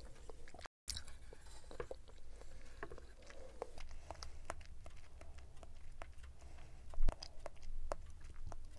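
Close-miked chewing of grape konjac jelly, with the teeth clacking together in a string of sharp little clicks. One much louder knock comes about seven seconds in.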